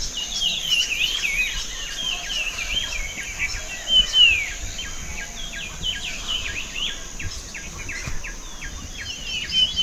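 Many birds calling at once, with overlapping short chirps and whistles from several species and one louder falling call about four seconds in, over a steady high insect buzz.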